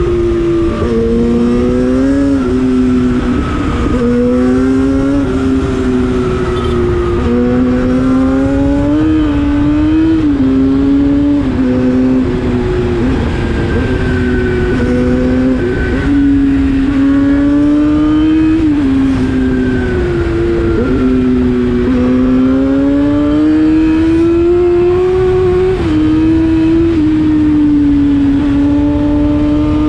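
Yamaha FZ6's inline-four engine through an Akrapovic exhaust, running hard under way. The high, steady engine note climbs and eases off again and again with the throttle, with several sudden short dips, over a constant rush of wind noise.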